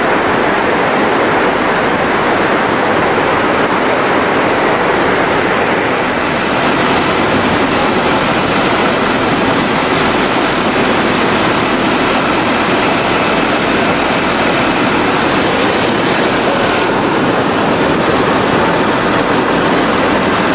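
Loud, steady roar of a rushing torrent of floodwater and debris, unbroken throughout, shifting slightly in tone twice.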